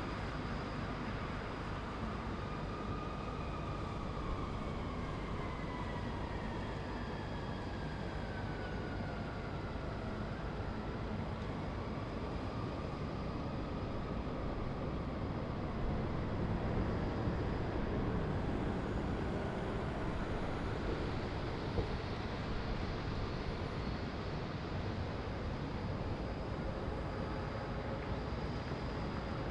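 Steady hum of city traffic heard from high above. A passing vehicle adds a whine that falls slowly in pitch over the first ten seconds or so.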